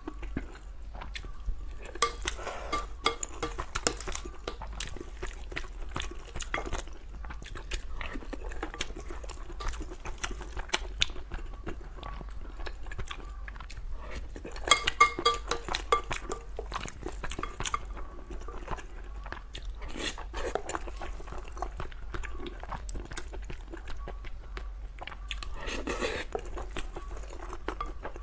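Close-miked chewing and eating of braised pork with rice: steady wet mouth noises and small clicks, with louder bursts of biting and chewing about two, fifteen and twenty-six seconds in.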